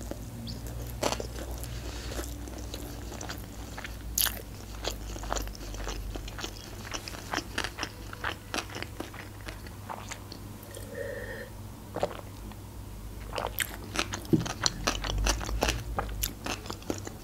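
Close-miked chewing of a sushi roll: wet mouth clicks and soft crunches, growing busier in the last few seconds.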